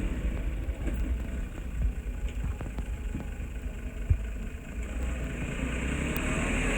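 Heavy diesel engine of construction machinery running low and steady, with scattered metallic clanks and one sharp knock about four seconds in; the engine picks up near the end.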